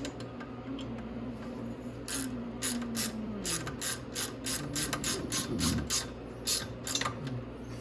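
Hand ratchet wrench clicking in a quick run, about four clicks a second, starting about two seconds in, as the exhaust collar nuts on an ATV's exhaust are tightened down.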